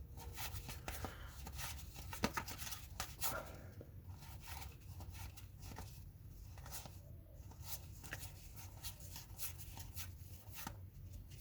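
Faint, scattered ticks and rustles of trading cards being handled and flipped through, over a low steady hum.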